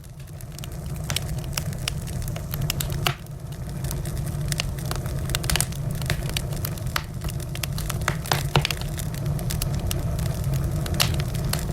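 Wood fire crackling: frequent irregular sharp pops and snaps over a steady low rumble, briefly quieter about three seconds in.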